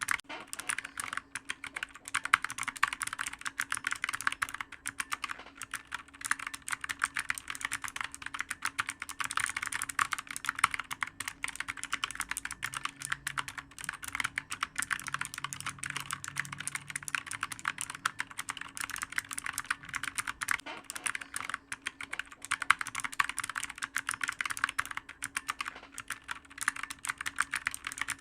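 Steady fast typing on a clicky computer keyboard: a dense, uneven stream of sharp keystroke clicks with no pauses.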